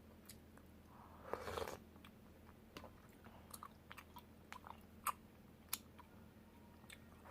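Close-miked chewing of soft, chewy tteokbokki rice cakes, with scattered sharp wet mouth clicks and one brief, louder noisy burst about a second and a half in.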